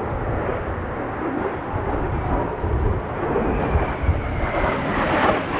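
Kawasaki T-4 jet trainer's turbofan engines rushing past in a flyby, the sound swelling with a faint whine that falls in pitch near the end. Gusty wind buffets the microphone with a deep rumble.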